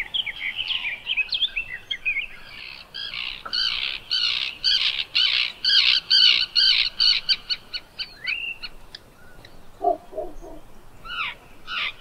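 Birds singing and calling: many short high chirping notes that come faster and faster, then a few lower, harsher calls about ten seconds in.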